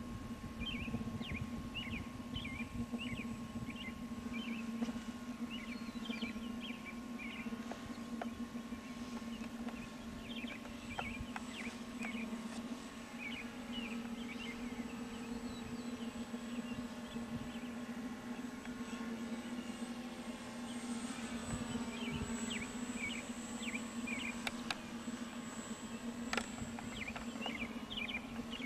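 Electric motor whine of a ParkZone T-28 RC plane flying, its pitch drifting up and down as it passes, with birds chirping repeatedly and wind buffeting the microphone.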